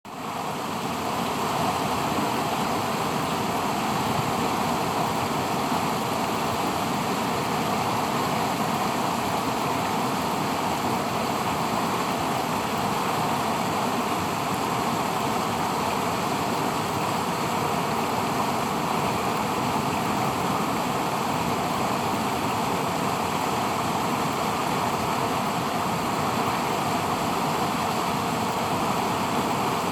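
Floodwater pouring over a dam spillway: a steady, even rush of falling water, the river running high after heavy rain. It fades in over the first second and then holds constant.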